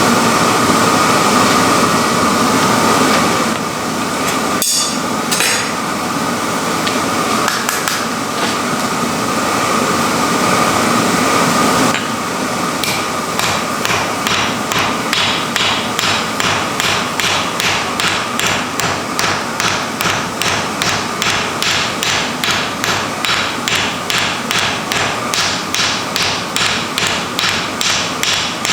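Steady rushing noise with a steady high tone for the first twelve seconds or so, broken by a single sharp knock. Then a blacksmith's hammer starts striking iron in a steady rhythm, about two blows a second.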